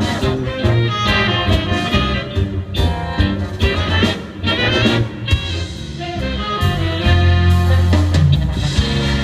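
A Navy big band playing jazz: brass and saxophones over a drum kit and bass.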